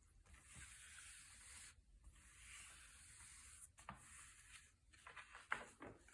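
Thick glossy paper pages being handled and turned: soft sliding hisses of paper, then a quick run of crisp crackles about five seconds in as a page flips over.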